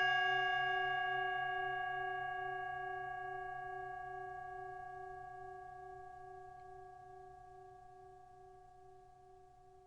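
Singing bowl ringing out after a single strike: several steady tones that fade slowly and evenly, the lower tone gently pulsing as it dies away.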